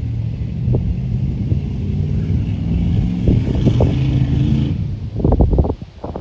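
Square-body pickup's V8 engine running steadily. About five seconds in it gives way to a quick run of knocks and thumps.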